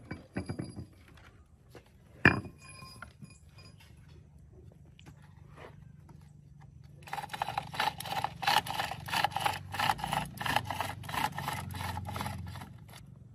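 A sharp metallic knock with a short ring about two seconds in, then about five seconds of quick back-and-forth scraping strokes, about three a second, like a hand tool worked over a part.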